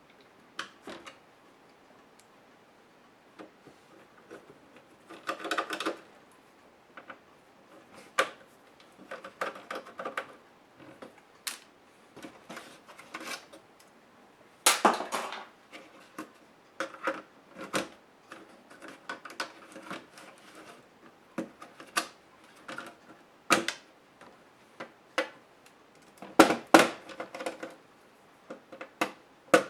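Irregular clicks, taps and short rattles of a Compaq HP 6720S laptop's plastic case and parts being handled and pried apart during disassembly. The loudest clusters come about 15 s and 26 s in.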